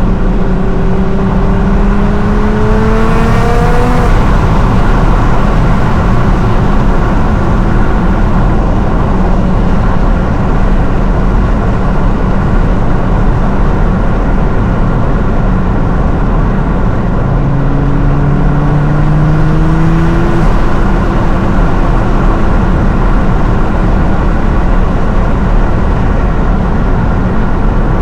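Tuned 750-horsepower R35 Nissan GT-R's twin-turbo 3.8-litre V6 pulling under acceleration, over steady heavy road and tyre noise. The engine note rises in pitch over the first few seconds and again about two-thirds of the way through.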